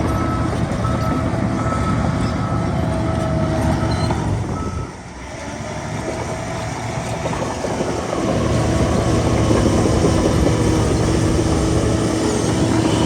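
Heavy diesel engine of earthmoving machinery running steadily, with a reversing alarm beeping on and off for roughly the first four seconds. The engine dips briefly about five seconds in and runs louder from about eight seconds.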